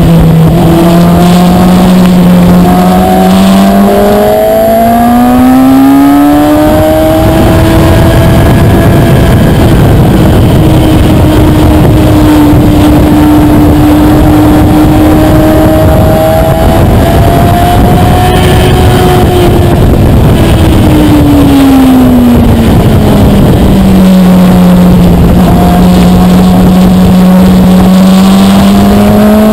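Kawasaki ZX-6R's 636 cc inline-four engine under way, heard from on board over steady wind rush. Its pitch climbs over the first several seconds and holds high through the middle as the bike accelerates. It drops about two-thirds of the way through as the bike slows, then starts climbing again near the end.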